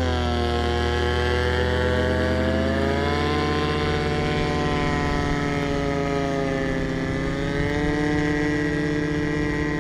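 Paramotor engine and propeller running in a steady drone, its pitch wavering slightly near the start and then holding.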